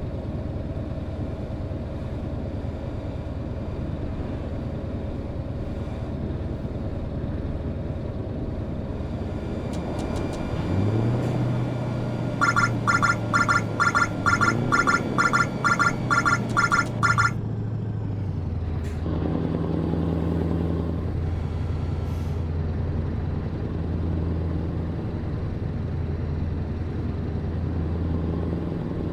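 Truck engine running steadily, heard from inside the cab, its note shifting about ten seconds in. Midway a series of electronic beeps sounds, about two a second for roughly five seconds, then stops.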